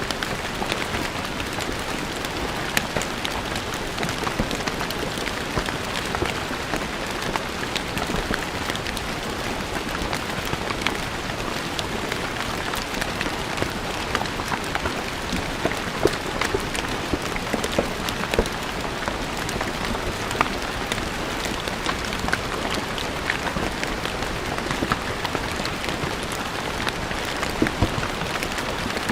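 Steady rain falling on a stone floor, a continuous patter with many individual drops ticking sharply against the stone.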